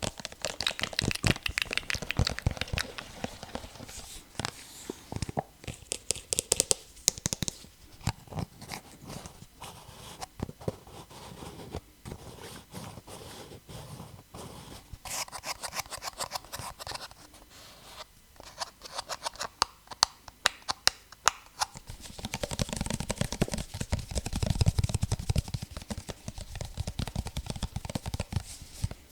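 Fingers tapping on objects in quick, irregular runs of sharp clicks, growing busier and louder about three quarters of the way through.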